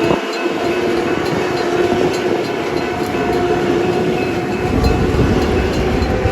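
Long Island Rail Road electric commuter train departing the station: a steady whine in several pitches over wheel-on-rail rumble, with the low rumble growing louder about four and a half seconds in.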